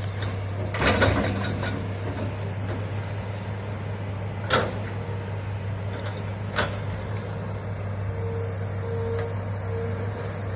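Hitachi excavator's diesel engine running steadily, with a burst of crackling about a second in and two sharp knocks around the middle.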